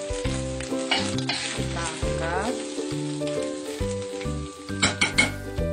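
Long metal spatula scraping and scooping shredded chicken in a wok, with the hot food still sizzling and a few sharp scrapes near the end, over background music.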